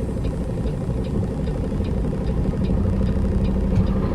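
Peterbilt semi truck's diesel engine running steadily, heard from inside the cab, with a faint regular ticking about two or three times a second.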